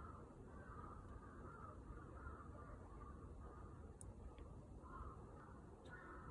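Crows cawing faintly, a run of short harsh calls that pauses briefly around the middle and resumes near the end, with a few faint sharp crackles from the wood fire over a low steady rumble.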